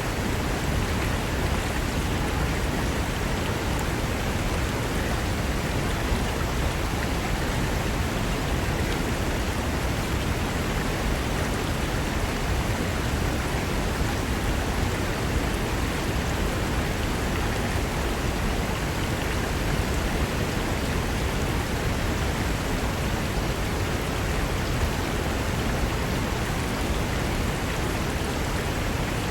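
Fast mountain river rushing over rocks: a steady, dense wash of water noise with no breaks or distinct splashes.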